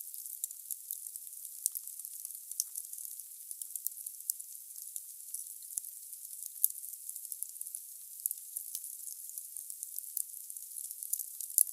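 Firewood burning in a fireplace: a steady high hiss with many irregular sharp crackles and pops.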